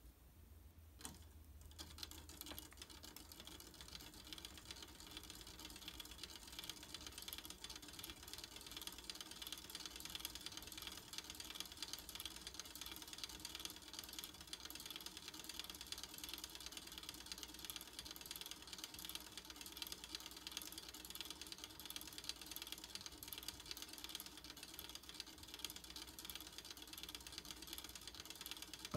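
The small geared mechanism that spins the bird figures, running with a faint, steady, rapid clicking of gears that starts about a second in.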